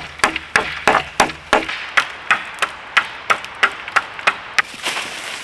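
A hatchet chopping at a dead wooden branch: a quick, even run of sharp strikes, about three a second, that stops near the end.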